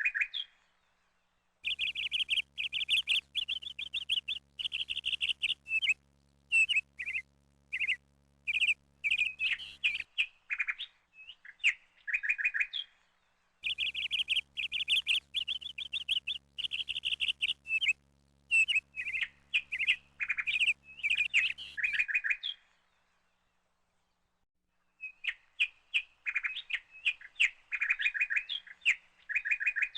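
A songbird singing long, rapid phrases of quick repeated and varied high notes, with short pauses between phrases and two gaps of silence.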